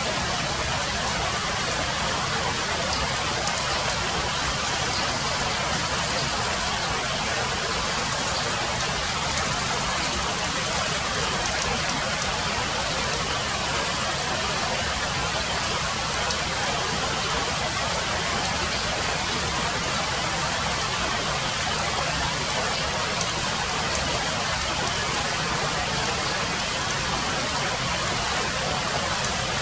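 Steady rain falling on broad leaves: an even hiss with a few faint ticks of single drops.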